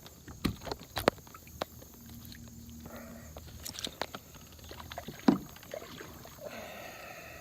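Scattered light knocks and clicks against a plastic fishing kayak as a fish is brought in and handled, with the loudest knock about five seconds in.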